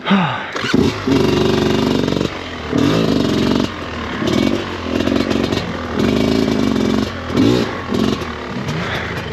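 Off-road motorcycle engine revved hard in repeated bursts, each rising quickly in pitch and then holding before dropping back. It is the sound of a dirt bike stuck, its rider blipping the throttle to get it moving.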